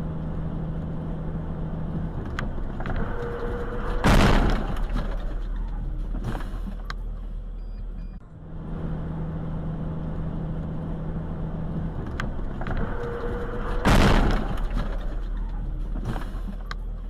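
Car road noise, then a single loud, sudden bang: a collision. The same few seconds then play again, bang included.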